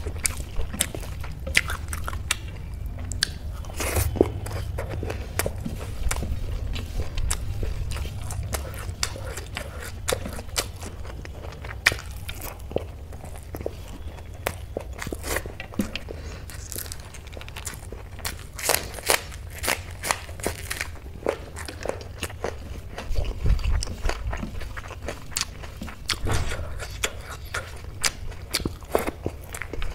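Close-miked eating: chewing and wet mouth clicks from mouthfuls of rice and dal eaten by hand, with fingers gathering food on a metal plate.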